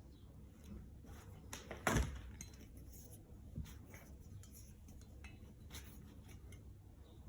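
Steel fire tongs being handled: scattered small metal clicks and clinks, with one loud metal clack about two seconds in and a smaller knock about a second and a half later.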